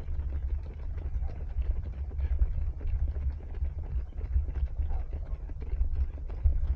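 Running footsteps of a group of runners, a quick run of light thuds, over a steady low rumble on a small action camera's microphone carried by a runner.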